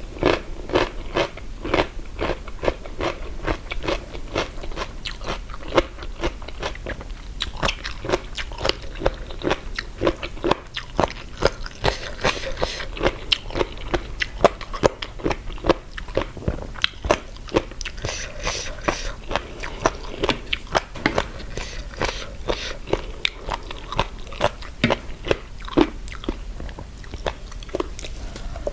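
Close-up crunching and chewing of crisp pickled jellyfish in a spicy seafood salad, a rapid run of sharp crackling bites.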